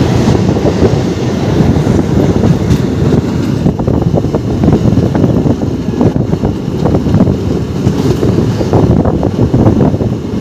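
Train running along the track: a loud, continuous rumble with rapid clicks and rattles.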